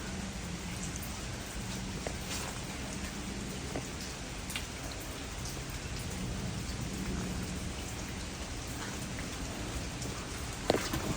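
Rain falling steadily during a storm, an even hiss with scattered drips, and a sharp click near the end.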